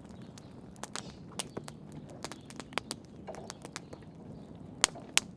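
Wood fire crackling, with irregular sharp pops and snaps over a low hiss of flame, a couple of louder pops near the end.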